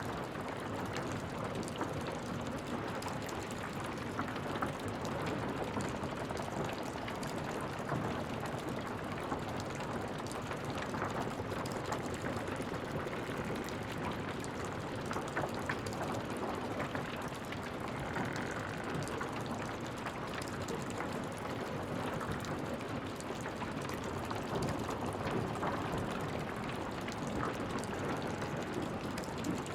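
Wood fire in a fireplace crackling steadily: a dense run of small pops and snaps over a soft hiss.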